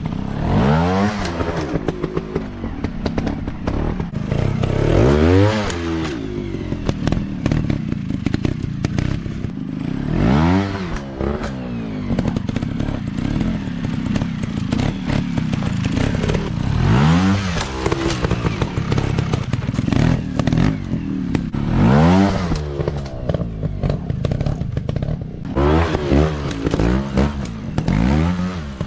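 Off-road dirt bike engines revving hard in repeated throttle bursts, the pitch climbing and dropping every few seconds, with the engines running in between, and some clattering.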